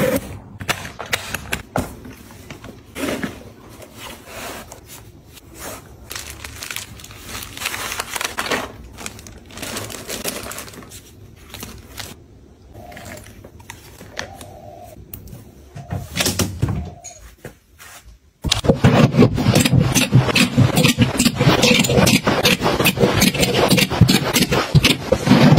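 Household items being handled during organizing: scattered clicks, knocks and short scrapes. About 18 seconds in, this gives way abruptly to a denser, louder, continuous run of rustling, clicking and scraping.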